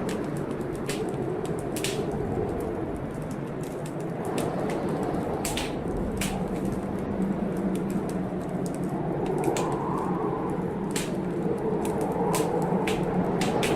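Wood fire crackling in a fireplace, with sharp pops scattered irregularly, over a steady rushing background of storm wind and rain.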